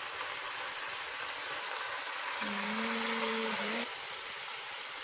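Sate and fried chili-onion sambal sizzling in a hot stainless steel pot, a steady hiss. About halfway through, a person briefly hums a single held note.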